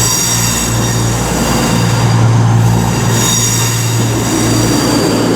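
CrossCountry Voyager diesel multiple units pulling out of the platform, their underfloor diesel engines running with a steady low hum while the wheels squeal in several high, steady tones.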